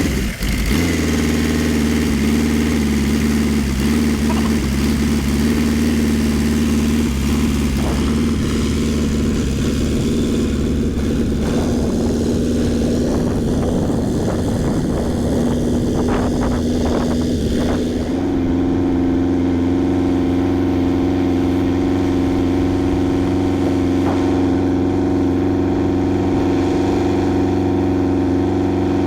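Light piston helicopter's engine and rotor running steadily just after start-up, with the engine speed stepping up about two-thirds of the way through and then holding.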